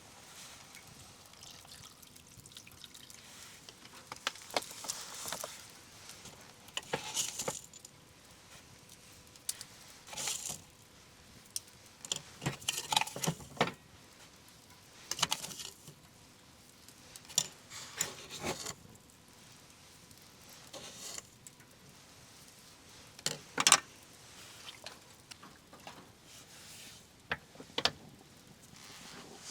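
Scattered clinks, taps and rustles of small objects being handled, with a sharper click about four-fifths of the way through.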